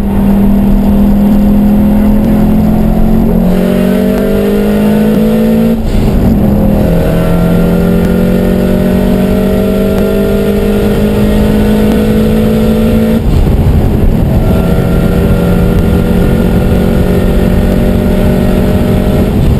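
Tuned 2005 Subaru Impreza WRX STI, its big-turbo 2.5-litre flat-four making about 450 hp, accelerating hard at full throttle, heard from inside the cabin. The engine pitch climbs steadily through each gear and drops at two upshifts.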